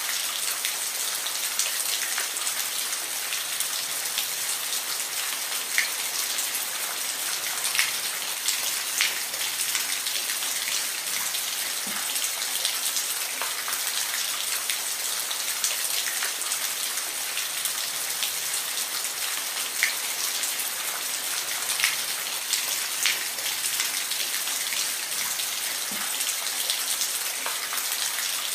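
Steady rain falling, a continuous hiss with scattered sharper taps of individual drops striking a surface.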